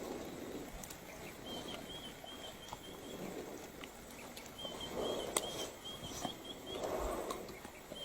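Wildlife ambience: a high, rapid chirping repeated in runs of about two seconds, with soft rustling swells about five and seven seconds in.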